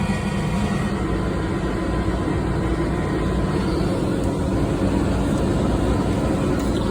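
Steady noise of HVAC air-handling equipment running, with a faint steady whine over it.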